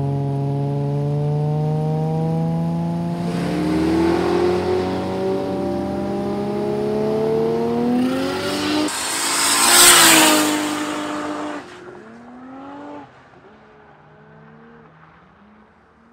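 Toyota 2JZ inline-six in a Holden VL Commodore drag car running at the start line, its pitch climbing slowly. About nine seconds in comes a loud burst of noise as it launches. The sound then drops away and fades, with short rising notes as it goes up through the gears.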